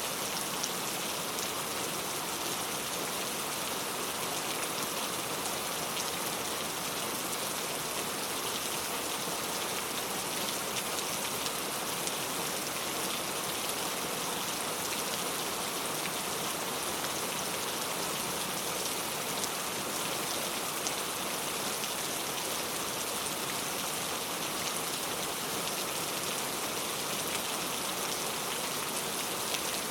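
Heavy rain falling steadily, a dense even hiss with scattered drops.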